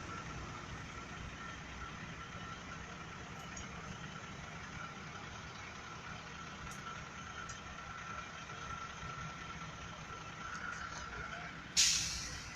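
Steady vehicle and engine noise with a faint steady whine, a few light ticks, and a sudden loud hiss near the end that fades within about a second.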